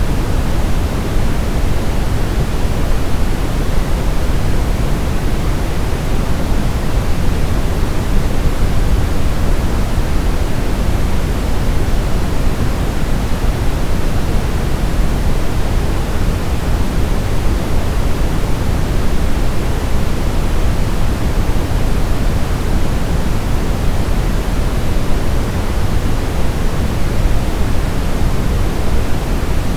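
Steady sleep-aid noise, an even hiss and rumble that is fuller in the low end than in the highs, with no changes, like pink noise rather than pure white noise.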